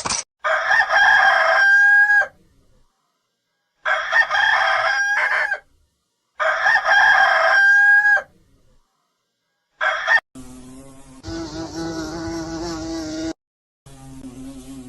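A rooster crowing three times, each crow about two seconds long and ending in a held note. About ten seconds in, a steady insect buzzing takes over, with a short break near the end.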